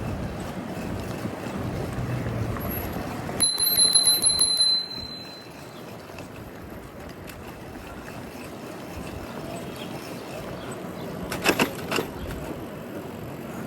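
A bicycle bell rings in a rapid trill for about a second and a half, a few seconds in, over steady wind and street noise from riding. Near the end comes a brief rattle of clicks.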